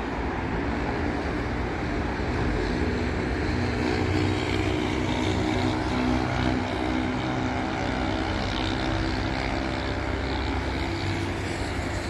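Road traffic on a busy city avenue, with one motor vehicle's engine drone growing louder past the middle and then easing off as it passes.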